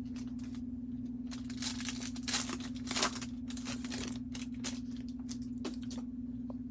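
Trading card pack wrapper being torn open and crinkled, in a run of quick rips and rustles with the loudest about two to three seconds in. A steady low electrical hum runs underneath.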